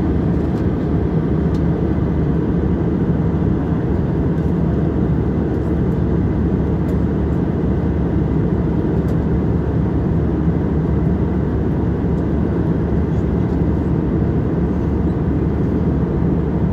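Steady low cabin noise of an airliner, an even rumble of engines and airflow that holds at one level.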